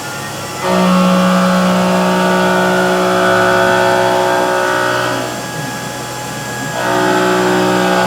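CNC hobby mill's end mill cutting metal: a loud, steady pitched whine with overtones that starts under a second in, falls back to a quieter spindle run for about a second and a half past the middle, and returns near the end.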